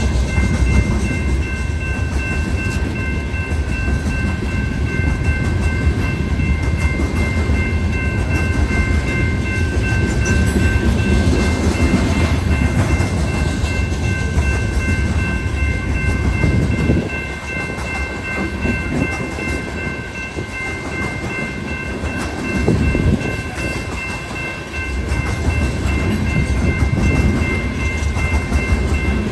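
BNSF coal train rolling past: a steady low rumble of wheels on rail, easing off briefly about two-thirds of the way through, with thin high steady tones running over it.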